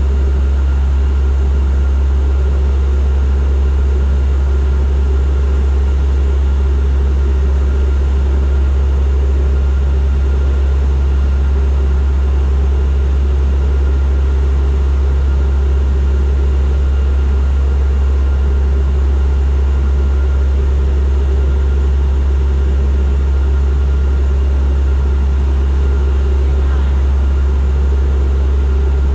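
Turboprop airliner in cruise or descent, heard from inside the cabin: a loud, steady drone of engines and propellers, strongest in a deep hum.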